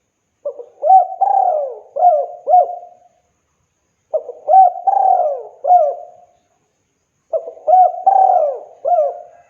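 Spotted dove cooing: three phrases, each a short run of four or five coos, with a pause of about a second between phrases.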